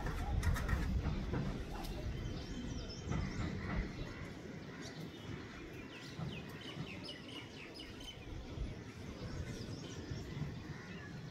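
Small birds chirping and twittering in scattered short calls over a low outdoor rumble. The rumble is strongest in the first few seconds.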